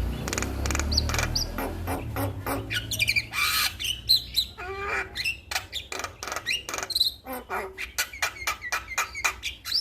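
Male Javan myna (jalak kebo) singing a busy, varied song of gliding whistles and harsh squawks, broken by fast runs of sharp clicking notes in the second half. A low rumble sits under the first couple of seconds.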